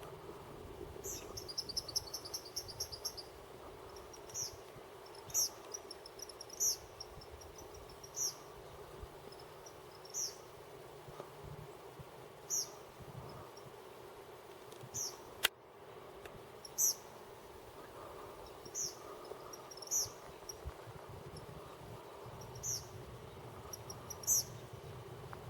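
Eastern kingbird calling with high, sharp notes: a rapid stuttering run about a second in, then single notes every second or two. A single sharp click about halfway through is the loudest sound.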